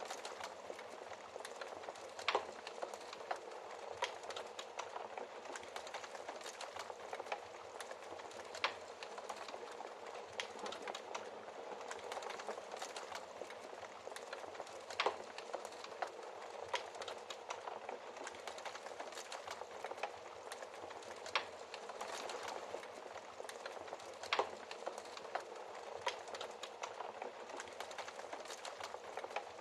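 Wood fire burning in a fireplace: a soft continuous hiss with constant small crackles and a louder sharp pop every few seconds.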